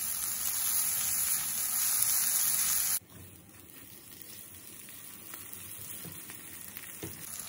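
Ground red chili paste sizzling in hot oil in a nonstick wok as it is stirred. The frying hiss is loud for about three seconds, then drops suddenly to a much quieter sizzle.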